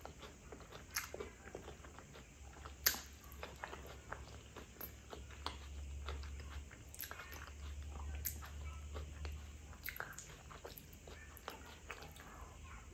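Close-up chewing and wet mouth clicks of someone eating soft sticky rice by hand, with one sharper click about three seconds in, over a faint low hum.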